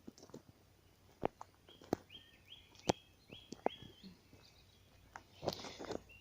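A bird calls a quick series of five short, repeated whistled notes in the middle. Sharp clicks and knocks are scattered throughout and are the loudest sounds, and a brief rustle comes near the end.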